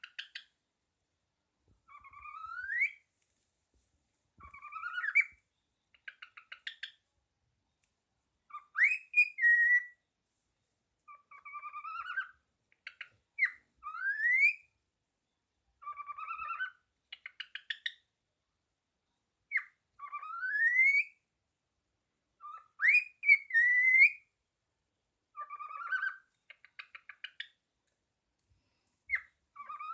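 Pet parrot singing: a repeated series of rising whistled notes, about one every two seconds, some followed by short rapid chattering pulses.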